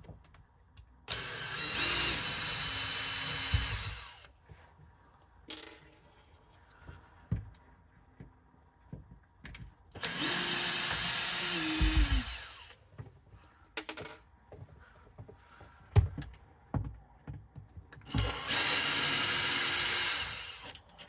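Cordless drill-driver running in three bursts of about three seconds each, undoing screws to take off the fan cover; the motor whine drops in pitch as each burst stops. Light clicks and knocks of handling in between.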